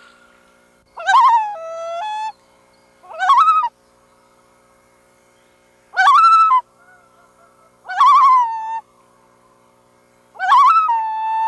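Loons calling: five separate calls, several with a quick wavering in pitch and some ending in a held, level note, the last still sounding near the end. A faint steady tone hums underneath.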